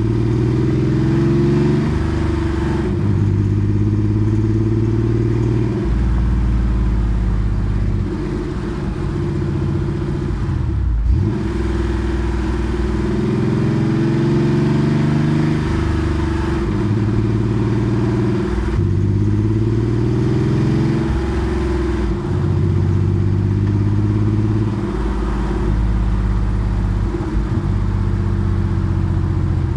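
Air-cooled flat-six of a Porsche 964 Carrera 2, breathing through a centre straight muffler, pulling through the gears. Its pitch climbs steadily, then drops at each upshift, six or so times, with a brief lift around the middle.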